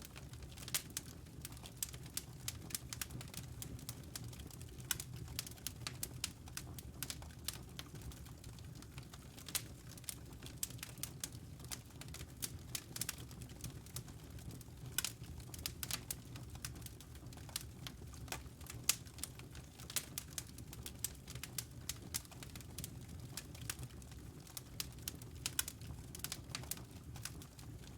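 Wood fire burning in a fireplace and crackling: an irregular run of sharp pops and snaps, several a second, over a low steady rumble.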